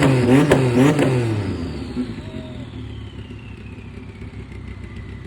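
Vehicle engine revved in quick throttle blips, about two a second, for the first second or so, then dying away. A faint high whine then slides slowly down in pitch.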